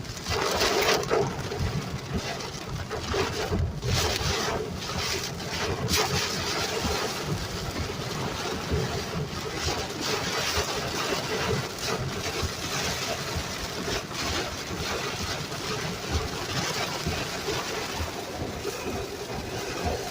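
Strong storm wind blowing hard and buffeting the microphone, a dense noise whose loudness swells and dips with the gusts.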